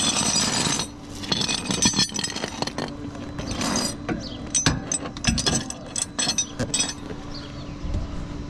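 Metal clinking and clanking as tow hardware is handled and fitted under a vehicle, starting with about a second of scraping, then a quick run of sharp clanks.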